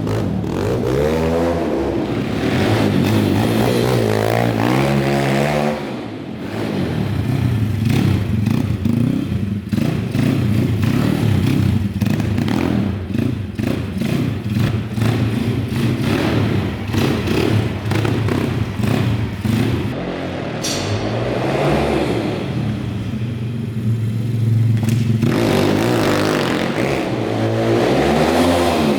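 150cc pit bike engine revving up and down several times, with steadier running between the revs and a last rise near the end.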